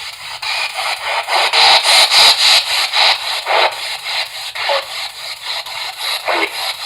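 P-SB7 spirit box sweeping rapidly through radio stations: choppy static broken into clipped radio fragments several times a second, loudest about two seconds in.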